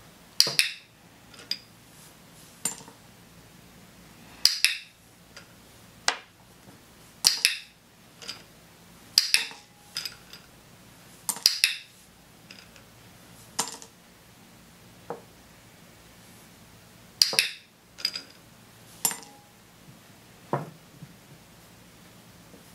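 A training clicker clicking, mixed with small hard objects (toy animals and glass jewels) knocked over and set down clinking on a tabletop: about a dozen sharp clicks and clinks at irregular intervals.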